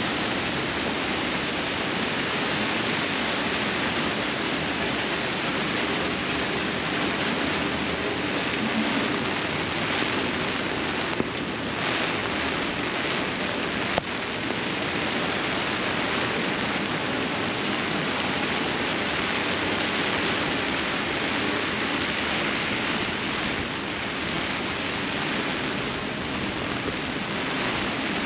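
Steady heavy rain on a wet city sidewalk, and from partway through on an umbrella held overhead. Two short clicks come about eleven and fourteen seconds in.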